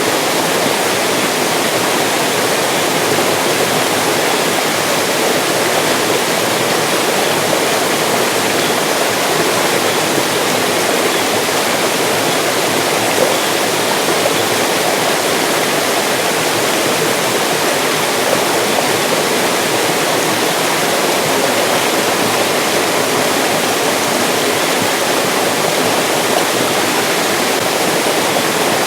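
Mountain stream rushing steadily over rocks: an even, unbroken water noise.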